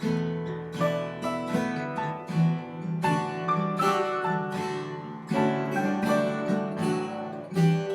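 Acoustic guitar music, plucked and strummed with a regular beat.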